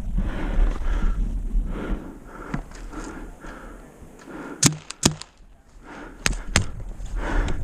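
Heavy, rapid breathing and movement, then four sharp pops in two quick pairs from a Tippmann TiPX paintball pistol firing.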